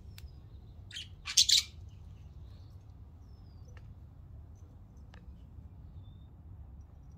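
Birds chirping: a loud, harsh burst of chirps about a second in, then a few faint, thin calls, over a steady low rumble.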